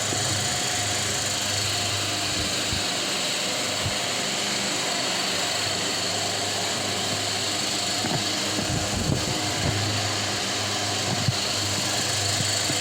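Delta Gold electric fan running: a steady whir of the blades with a low motor hum. A few light knocks come about two-thirds of the way through.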